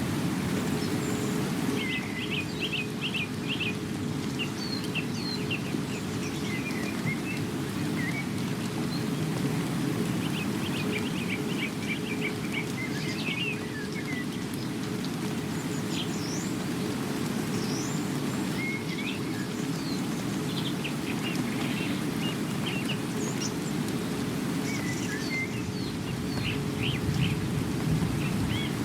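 Steady rain with birds chirping and trilling throughout, the short calls coming in scattered bursts over the constant rushing of the rain.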